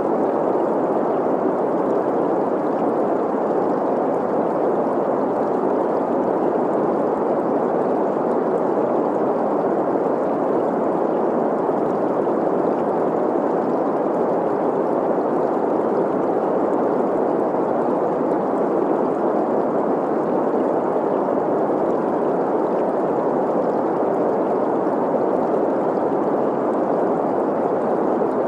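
Steady green noise, an even hiss centred in the middle range, blended with the running water of a stream.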